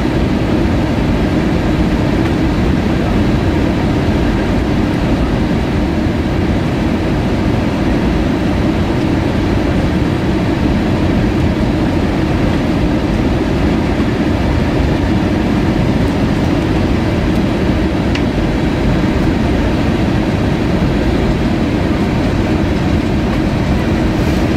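Steady roar of engine and airflow noise inside the cabin of an Airbus A320-232 with IAE V2500 engines, on its descent towards landing. The noise is deep and even and does not change.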